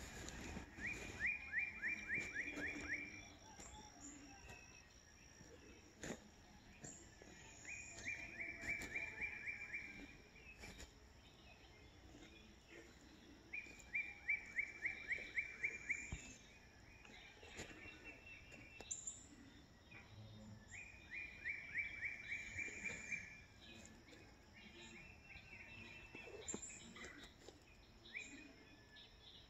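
A songbird repeating the same song about every six seconds: a quick run of about ten short falling notes lasting around two seconds. Other birds call faintly in the background.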